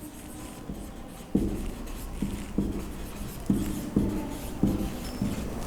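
Pen or marker writing on a board in a small room: a run of short scratching strokes, starting about a second in and following one another roughly every half second.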